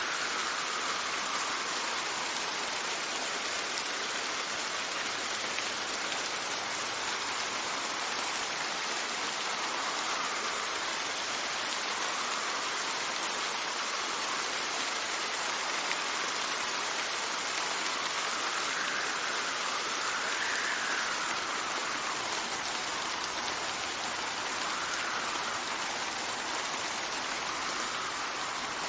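Steady rain falling in a dense, even hiss, with wind gusts swelling and fading every few seconds.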